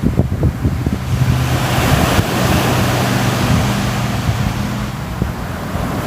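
Ocean surf washing ashore, a wave swelling over the first couple of seconds, with wind gusting on the microphone. A low steady drone runs under the middle few seconds.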